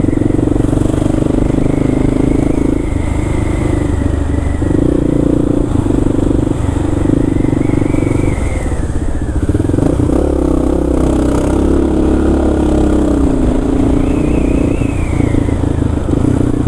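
Kawasaki KLR650's single-cylinder engine running while riding, its note dropping and picking up every few seconds with throttle and gear changes.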